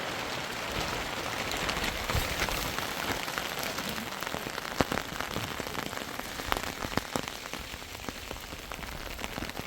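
Steady rain falling, with many individual raindrops ticking sharply on a nearby surface.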